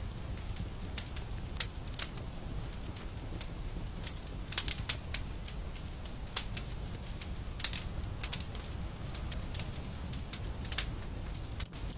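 Fire in a fireplace crackling: irregular sharp pops and snaps over a steady low rumble, with louder clusters of pops about four and a half and seven and a half seconds in.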